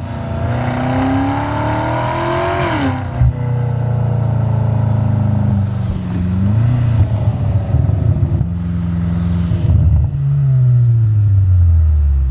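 BMW G99 M5 Touring's twin-turbo V8 through a DCE catback exhaust with X-pipe and OPF delete, under load with the pitch rising, then dropping sharply at a gearshift about three seconds in. It holds a steady drone, then the pitch falls as the car slows near the end.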